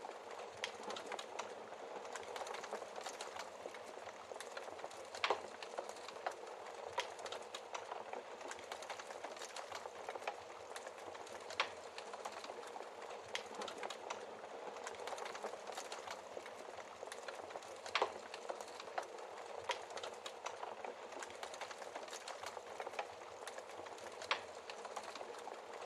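Wood fire burning in a fireplace, crackling steadily with dense small snaps and a few louder pops spaced several seconds apart.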